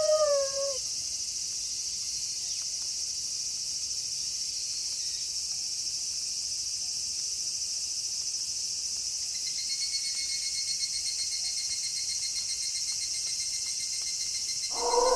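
A steady, high chorus of crickets in the night, with an evenly pulsing trill joining about two-thirds of the way in. A wolf's howl falls in pitch and fades out in the first second, and another howl begins just before the end.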